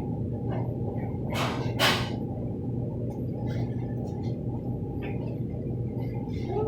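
Hurricane wind and rain heard from indoors as a steady low rumble, with two short hissing bursts about one and a half and two seconds in.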